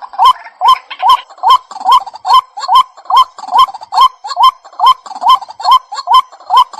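White-breasted waterhen calling: a fast, even series of short, loud hooked notes, about two and a half a second, as used in a lure recording for attracting the birds.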